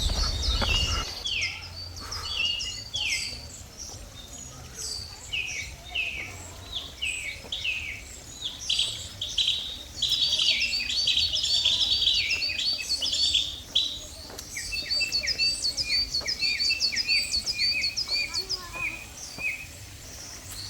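Several wild birds singing and calling: many short, downward-sweeping chirps, densest in the middle, then a run of quick repeated high notes. A low rumble in the first second.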